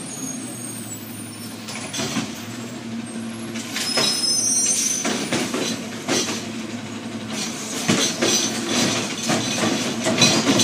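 Garbage truck running, with high squeals about four seconds in and a string of clanks and knocks through the second half.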